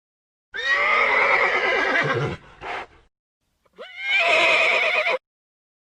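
Horse whinnying twice: a long, wavering neigh of about two seconds followed by a short breathy burst, then a second, shorter whinny that opens with a rising squeal.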